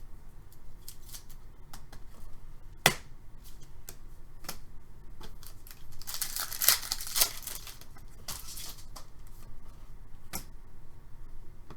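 Trading cards and their pack wrappers being handled: scattered light clicks and taps of cards, a sharp tap about three seconds in, and a stretch of wrapper crinkling and tearing past the middle.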